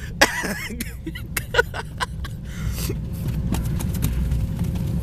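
Car engine idling with a low steady rumble, heard from inside the cabin. A quick run of clicks and knocks comes in the first two seconds.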